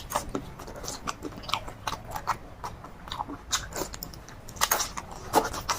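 A person chewing and crunching food close to the microphone: a quick, irregular run of short wet clicks and crunches.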